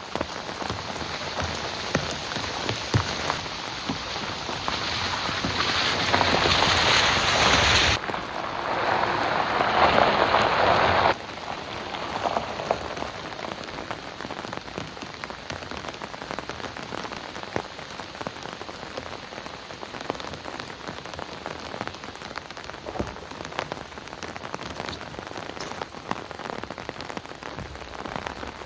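Heavy rain falling steadily, with many individual drops striking close by. It grows louder over the first several seconds, changes abruptly at about eight seconds and again at about eleven seconds, then settles into quieter steady rain.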